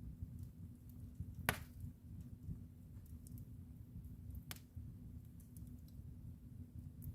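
Fireplace fire crackling: a steady low rumble of the flames with scattered faint ticks and a few sharp pops, the loudest about a second and a half in and another midway.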